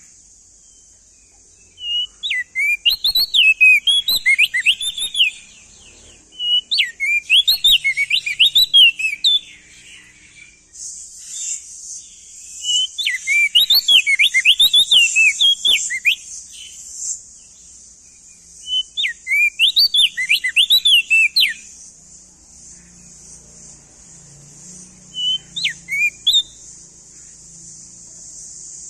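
Male opior jambul (crested dark-eye) singing in five bursts of quick whistled notes that sweep up and down, over a steady high hiss.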